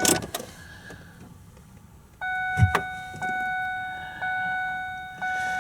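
A 2009 Ford Fusion's dashboard warning chime begins about two seconds in: a steady pitched tone that restarts about once a second. A single thump comes shortly after it starts.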